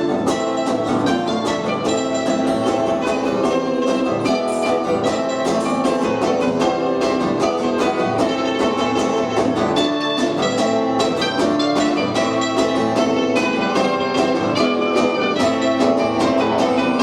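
Live punk band playing the opening of a song, loud and steady with a fast, even beat.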